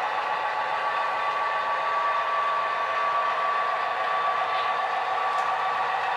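Model train running on the layout: a steady whir from the locomotive's motor and wheels rolling on the rails, with a faint steady whine.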